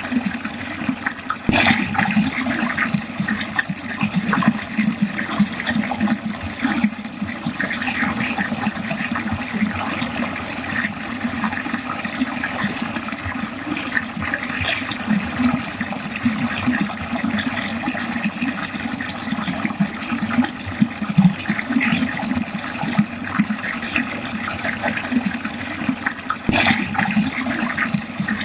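Water pouring continuously into a drain, gurgling and splashing without a break, with a couple of sharper splashes along the way.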